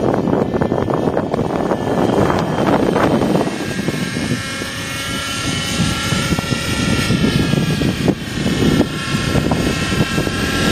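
Raptor 50 radio-controlled helicopter's small glow-fuel engine and rotor whining in flight, the pitch rising and falling as it manoeuvres. Heavy wind buffets the microphone.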